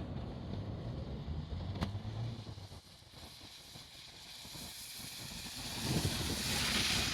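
A low engine rumble fades out; then an approaching train's running noise swells steadily, with faint wheel squeal near the end.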